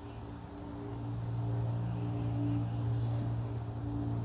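A steady low hum that grows slightly louder about a second in, with a few faint high bird chirps near the middle.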